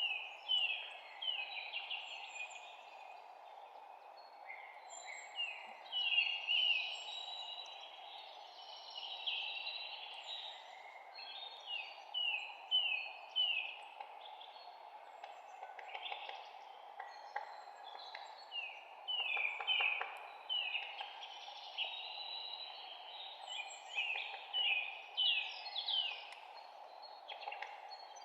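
Songbirds chirping: many short, falling notes, often in quick runs of three or four, over a steady background hiss.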